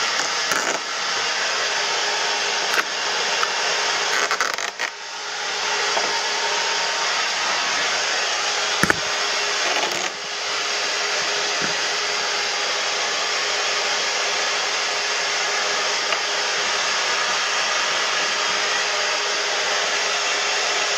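Steady rushing of motor-driven cleaning equipment with a faint steady hum. It dips briefly twice, about five and about ten seconds in, and there is a sharp knock near nine seconds.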